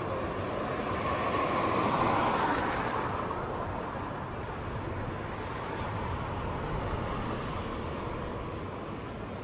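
A vehicle passing by, loudest about two seconds in and then fading away, over steady street noise.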